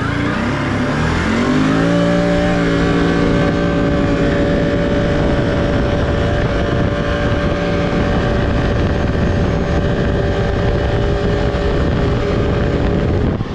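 Can-Am 850 four-wheeler's V-twin engine at full throttle on a top-speed run. Its pitch climbs over the first two seconds, then holds high and steady at speed, and eases off right at the end.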